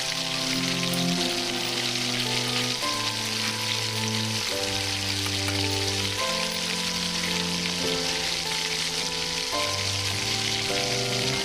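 Corn frying in hot oil in a miniature pan, a steady sizzle, over soft background music with slow held notes.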